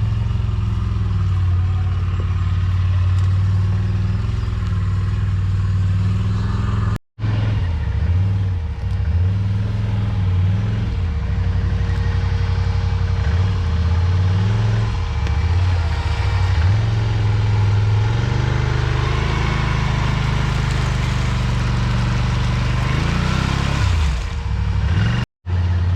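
Quad bike (ATV) engine running under load as it is ridden along a rough forest trail, its pitch rising and falling with the throttle. The sound drops out briefly twice, about seven seconds in and near the end.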